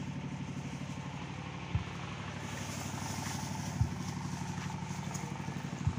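Diesel engine running steadily, a rapid even low throb. Three short low thumps come about two seconds apart.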